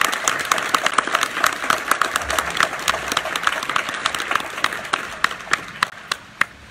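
Audience applauding, the dense clapping thinning out and dying away, with a few last scattered claps near the end.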